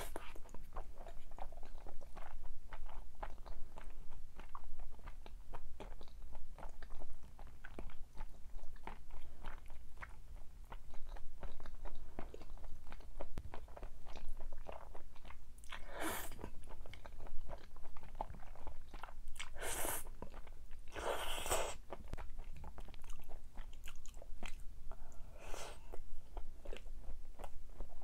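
Close-miked eating: steady chewing and crunching of food with many small clicks, and a few louder, longer crackles in the second half.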